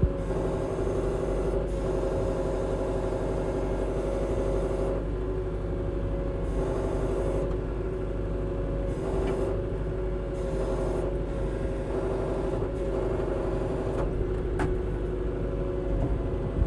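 Farm tractor engine running steadily at a constant speed, with an even, unchanging hum.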